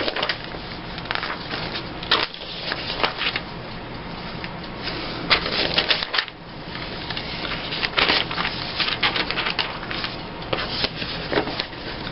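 Paper rustling and crackling in irregular bursts as a stack of cut-out paper pictures is handled and leafed through.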